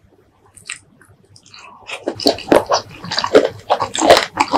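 Close-miked wet chewing of spicy boneless chicken feet, mukbang ASMR style. After a few faint clicks, a rapid, irregular run of squelching, smacking bites starts about two seconds in.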